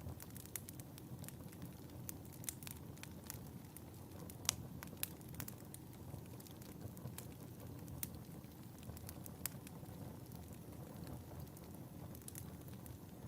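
Wood fire burning in a fireplace: a steady low rumble of the flames with irregular sharp crackles and pops, the loudest pop about four and a half seconds in.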